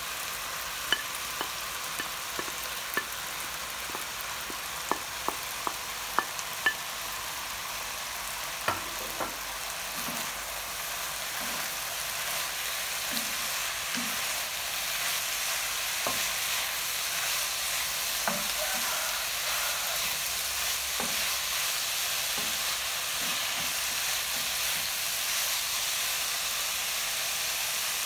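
Chicken and shredded ginger sizzling in a nonstick frying pan while being stirred, with a string of sharp clicks from wooden chopsticks tapping the bowl and pan during roughly the first nine seconds. The sizzle grows louder from about a third of the way in as the mix is turned with a wooden spatula.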